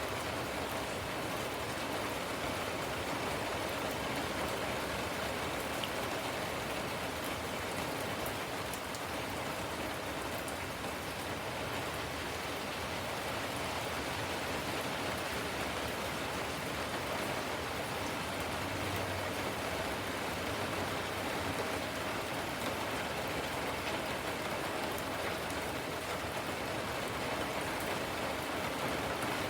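Steady rain falling and pattering on surfaces, with scattered individual drops ticking through it.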